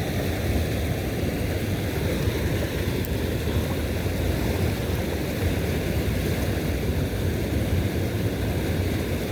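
Steady low rumbling wind noise on the microphone, even throughout with no distinct events.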